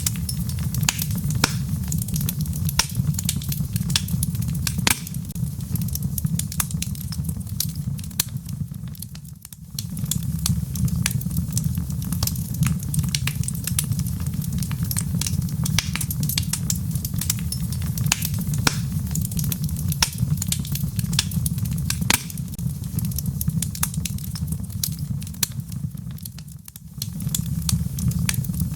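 Fireplace fire crackling, with many sharp pops over a steady low rumble. The sound briefly drops away twice, about a third of the way in and near the end.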